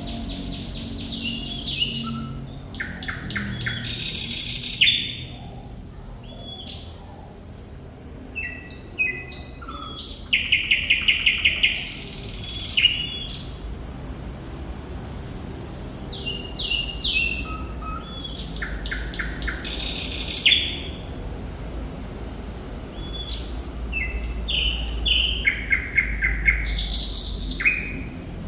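Thrush nightingale singing in loud phrases: high whistled notes and very fast, dry clicking rattles, repeated in bursts every few seconds with short pauses between them. A steady low hum runs underneath.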